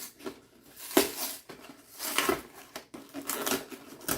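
Hands handling a cardboard trading-card collection box and its packaging: a sharp knock about a second in, then short bursts of rustling and scraping, and a click near the end.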